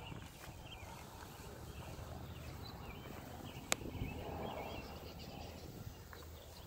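Faint bird chirps, with one sharp click a little past halfway.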